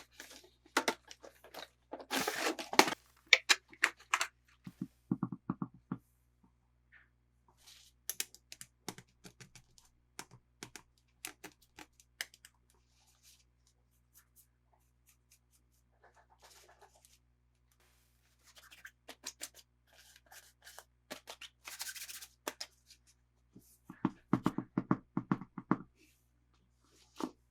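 Toy packaging being handled and opened: scattered crinkles, taps and tearing in short flurries, with quiet pauses between them.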